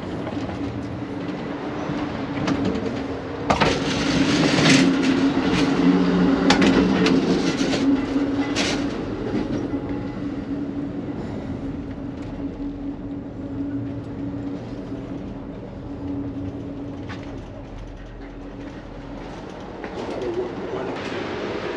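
Amtrak Auto Train running, heard from inside a sleeper car: a steady rumble and hum of the moving train, with a louder stretch of rattling and sharp knocks a few seconds in.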